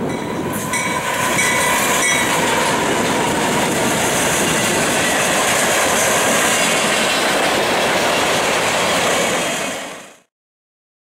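Freight cars rolling past close by: steel wheels running and clacking over the rail joints, with a thin squeal in the first few seconds. The sound fades in at the start and fades out near the end.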